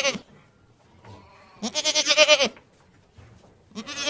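Goat bleating: loud, quavering bleats repeated about every two seconds.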